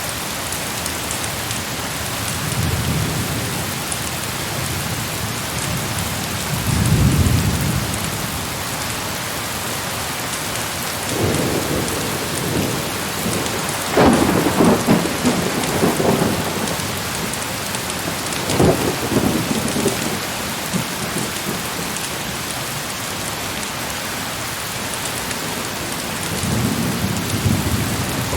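Heavy rain falling steadily, with rolling thunder over it. Low rumbles come a few seconds in. A louder, sharper peal about halfway through rolls on for several seconds, and another rumble builds near the end.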